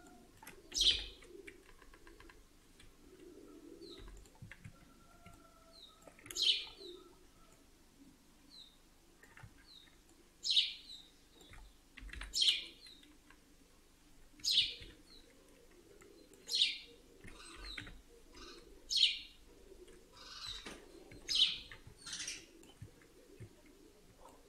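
A bird chirping: about ten short, sharp high-pitched calls come irregularly every couple of seconds over a faint low room hum.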